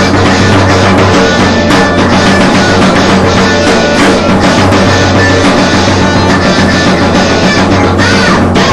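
Alternative rock band playing loud and steady, with distorted electric guitar, bass and a drum kit.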